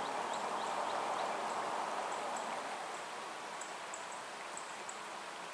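Frio River water rushing steadily, an even hiss that eases slightly over the seconds, with short high chirps dotted through it.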